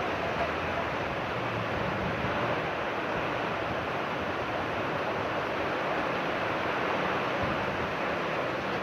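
Heavy rain pouring down in strong wind, a steady rushing noise with no let-up.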